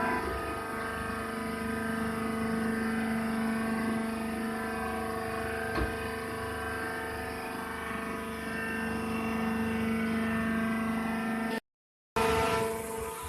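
Wheat straw baling machine running with a steady, humming mechanical drone. The sound cuts out completely for about half a second near the end, then resumes.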